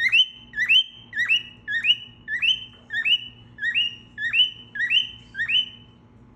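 A cockatiel giving a short rising whistle call over and over, about twice a second, with about a dozen calls before it stops near the end.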